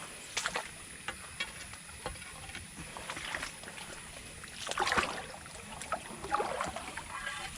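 Water sloshing and splashing in irregular bursts over a steady low wash, the loudest about five seconds in.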